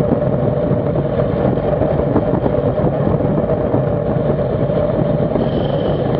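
Steady, loud wind rush over the microphone of a camera riding on a racing bicycle at speed in a criterium.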